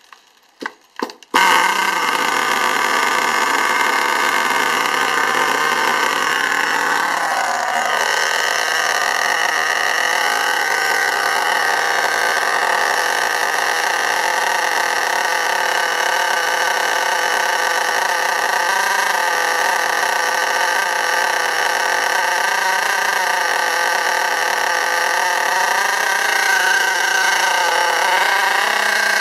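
STS D30M nitro engine firing twice briefly, then catching about a second and a half in and running steadily at idle. Its revs waver slightly up and down, the idle hunting the owner is trying to cure while running the engine in.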